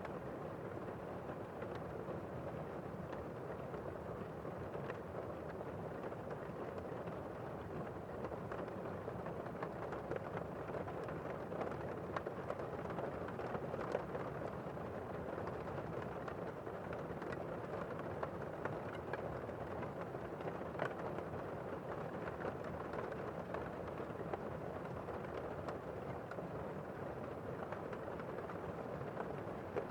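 Steady rain falling: an even hiss with faint scattered ticks of individual drops.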